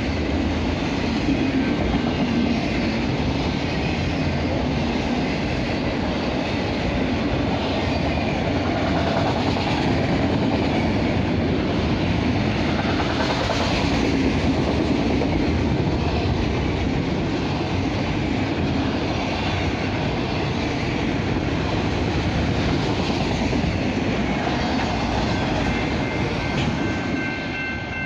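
Freight train of autorack cars rolling past close by: a steady noise of steel wheels on the rails. Near the end the train noise eases and the ringing tones of a grade-crossing warning bell come through.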